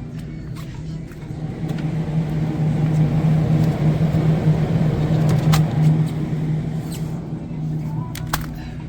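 Steady low machine hum of the store's refrigerated freezer cases, with a rushing noise that swells for a few seconds in the middle and eases again near the end.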